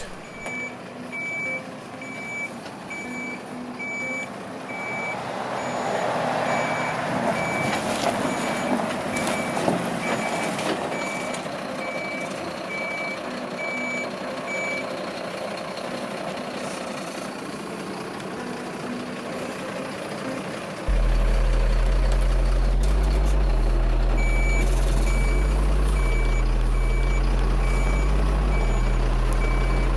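A vehicle's reversing alarm beeping about once a second over engine and working noise; it stops about halfway and starts again later. About two-thirds through, a loud low bass line comes in suddenly, stepping between a few notes.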